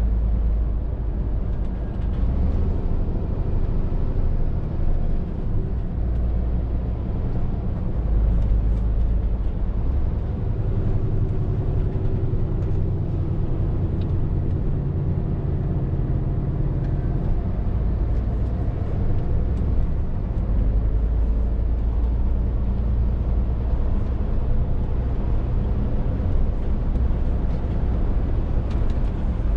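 Scania R450 lorry's 13-litre straight-six diesel pulling on the road, a steady low drone of engine and tyres, with the engine note shifting in pitch through the middle stretch as the speed changes.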